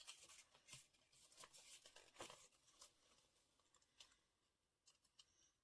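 Faint rustling and small crackles of paper and tape being pressed and handled.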